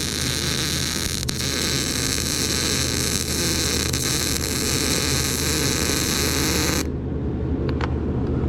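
Welding arc crackling and hissing steadily on mild steel as a bed rack crossbar is welded, cutting off suddenly about seven seconds in when the weld is finished.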